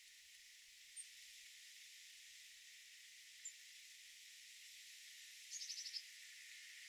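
Faint steady outdoor hiss with small songbirds calling: a single short high chirp twice, then near the end a quick trill of about seven notes.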